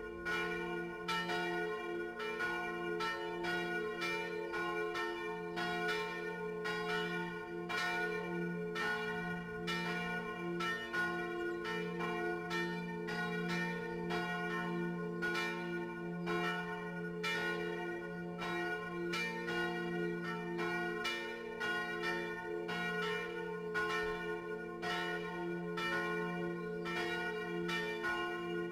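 Swinging cast-bronze church bell ringing, struck over and over at a steady pace, with its tones ringing on between strokes.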